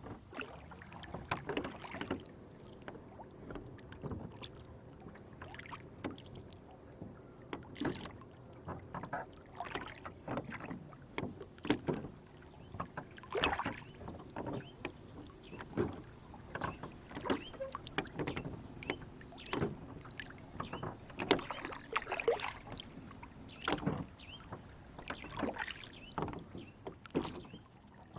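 Rowboat on a lake: water lapping and splashing against the hull in many small, irregular splashes.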